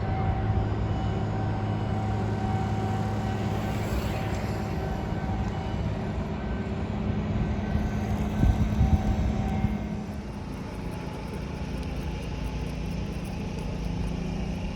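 A steady engine hum: a low drone with several held tones, a few low thuds a little past eight seconds in, and the whole sound dropping in level about ten seconds in.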